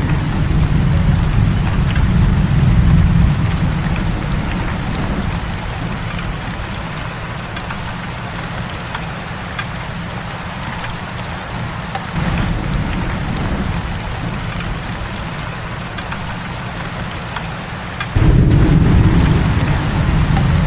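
Heavy rain pouring steadily, with a low rumble underneath that is strong at first, eases off through the middle, and jumps louder suddenly near the end.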